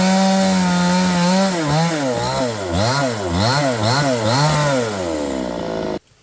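A small engine running at a steady high pitch, then its pitch rising and falling about twice a second for a few seconds before it drops away. The sound cuts off abruptly near the end.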